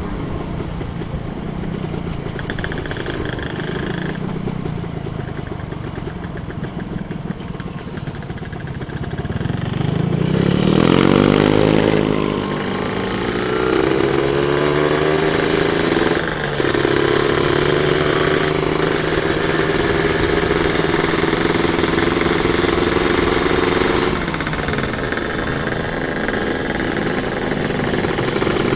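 Two-stroke Kawasaki Ninja 150 motorcycle engine under way. It holds a steady note, then revs up about ten seconds in, briefly dips as it shifts up, and runs at higher revs until it eases off near the end.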